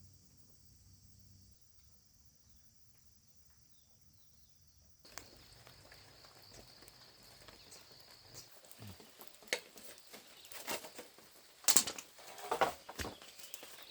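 Near quiet for the first few seconds, then scattered knocks and scraping of wood being handled, growing louder and more frequent toward the end.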